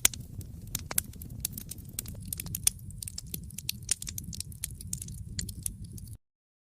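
Wood fire crackling, with frequent sharp pops and snaps over a steady low rumble. The sound cuts to dead silence about six seconds in.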